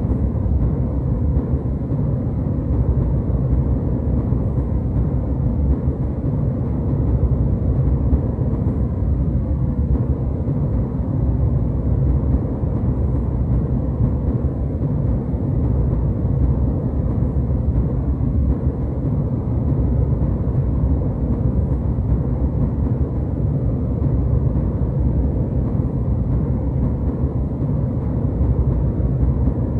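Steady low rumble of a jet airliner cabin in flight: engine and airflow noise heard from inside, deep and muffled, with little high hiss and no change.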